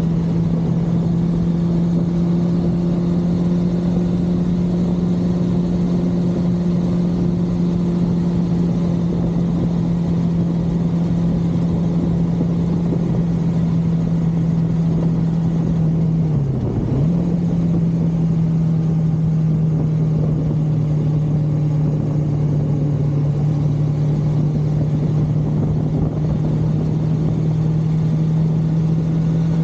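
1982 Suzuki GS550L's air-cooled inline-four engine running at steady revs under a low rush of wind noise. A little past halfway the revs dip briefly and pick straight back up.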